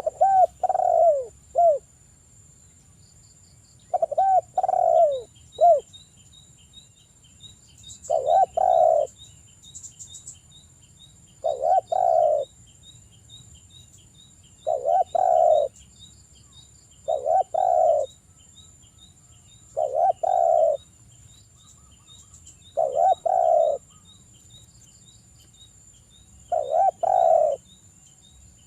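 Spotted dove (derkuku) cooing: about ten short phrases of two or three coos, one every three seconds or so. A faint, rapid, high ticking runs behind the coos.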